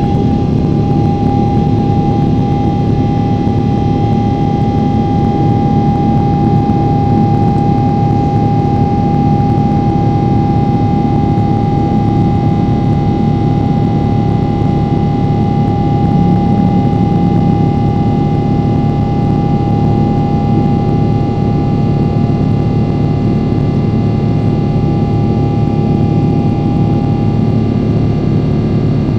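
Steady jet-airliner cabin noise inside a Boeing 777-300ER: a continuous rush of engine and airflow noise with a steady whine, its strongest tone fading near the end.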